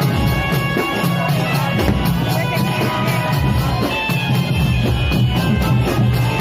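Loud live procession music: held wind-instrument notes over a steady, fast drumbeat, with a crowd underneath.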